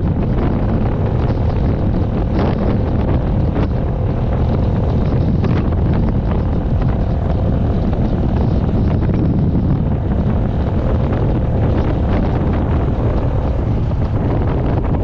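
A vehicle driving at a steady pace, with wind buffeting the microphone over a steady low road-and-engine rumble.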